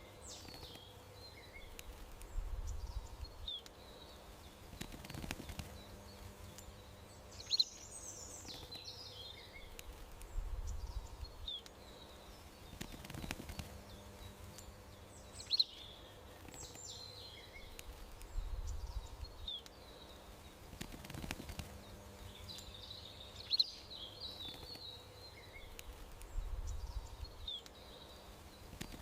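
Small songbirds chirping and trilling over a faint steady hum and low rumbles, the same sequence of calls coming round again about every eight seconds.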